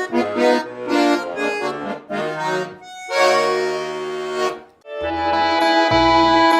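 Garmon (Russian button accordion) playing: short melody notes over bass chords, then a held chord. After a brief break just before five seconds in, a long sustained chord with bass begins.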